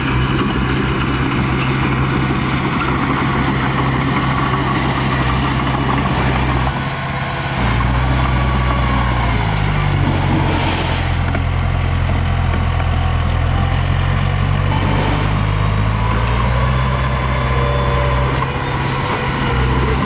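Heavy diesel engine of earthmoving machinery running under load. It rises in pitch about nine seconds in, holds there, and drops back near the end, with one brief hiss just after the rise.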